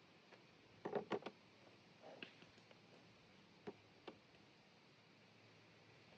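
Scattered faint clicks and taps against quiet background: a quick cluster about a second in, a softer one a second later, and two more close together near the middle.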